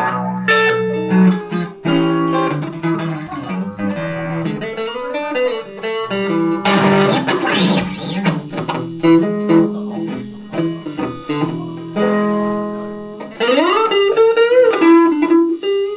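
Van Zandt Telecaster electric guitar played through a Roland JC-120 amp, running a continuous blues passage of picked notes and chords.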